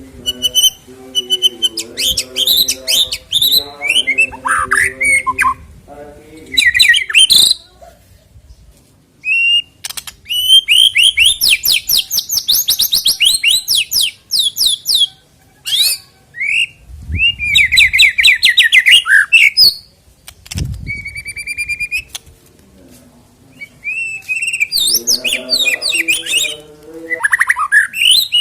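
White-rumped shama (murai batu) singing loud, varied bouts of clear whistles and rapid trills with short pauses between phrases. Lower-pitched repeated notes run beneath the song at the start and again near the end.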